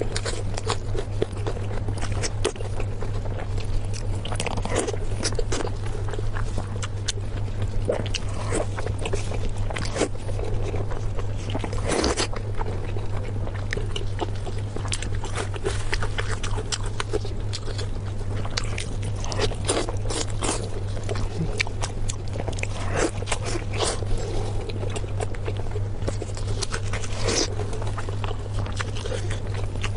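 Close-miked eating: irregular crunching and chewing with frequent small crackles and mouth clicks, over a steady low hum.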